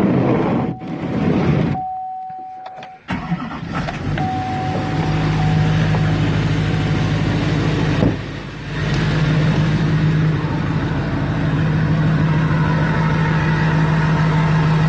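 Diesel pickup engine starting about three seconds in and settling into a steady idle, heard from inside the cab, with a steady beeping tone over the first seconds. The exhaust filters are gutted but the muffler is still on, so it is only a little louder than stock.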